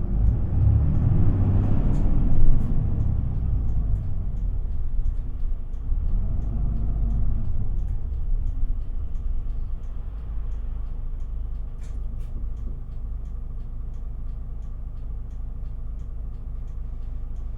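Inside a city bus in motion: the Isuzu Erga's diesel engine runs up in pitch and falls back in the first few seconds and again around six seconds in, under a steady low rumble of engine and road noise that settles quieter from about ten seconds on. Faint regular ticks sound in the background.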